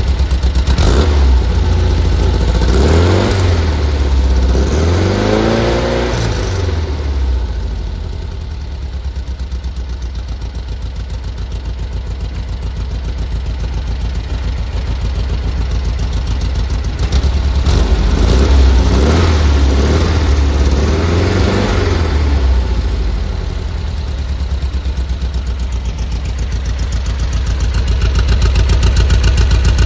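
1973 VW Squareback's air-cooled flat-four engine running at idle, its revs rising and falling in two spells, the first a few seconds in and the second a little past halfway.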